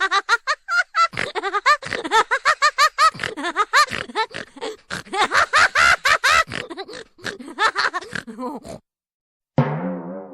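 Pitched-up, cartoon-style giggling: a fast run of short, chirpy voice sounds that stops about nine seconds in. After a brief gap a distorted guitar-like chord strikes and rings out, fading near the end.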